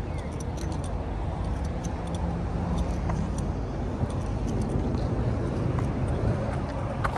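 Steady low rumble of a vehicle engine running, with scattered light clicks over it.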